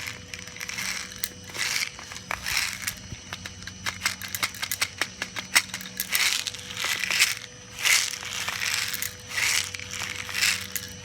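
Copper-coated steel BBs rattling and clicking as they are poured and shaken from their container into a BB gun's loading port, in repeated rattling bursts with many small clicks.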